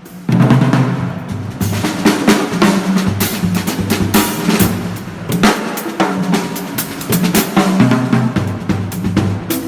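Drum kit and percussion played together in a busy groove: dense strikes of bass drum, snare and rimshots, with low pitched drum notes underneath.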